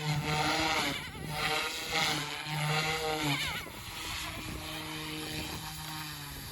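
OMP Hobby M2 Evo electric RC helicopter in flight, its rotor and motor hum swelling and fading as it manoeuvres, with a dip in pitch about three and a half seconds in. After that it settles steadier and quieter. Wind buffets the microphone throughout.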